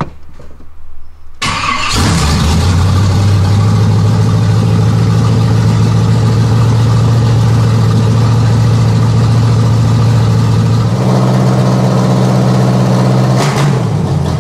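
Small-block Chevy 350 V8 in an S10 pickup is started: a short burst of cranking, then it catches about a second and a half in and settles into a steady fast idle. About 11 seconds in the engine speed steps up, then falls away again near the end.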